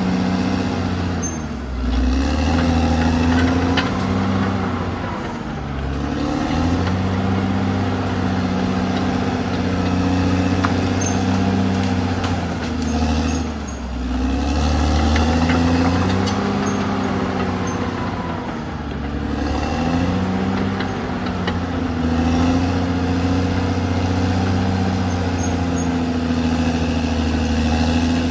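Caterpillar D6R XL bulldozer's diesel engine running under load, its pitch rising and falling every few seconds as the machine works.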